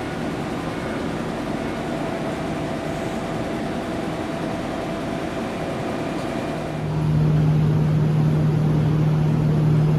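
Electric train standing at a station platform, with a steady running noise. About seven seconds in, the sound steps up suddenly to a louder, steady low hum.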